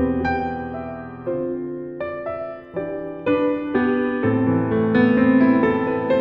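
Background music: soft piano playing a slow, gentle melody with sustained chords.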